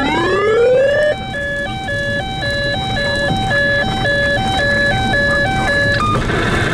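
Electronic emergency-vehicle siren: a rising wail that switches about a second in to a two-tone hi-lo alternation, about two tone changes a second. It cuts off near the end, leaving steady road and engine noise.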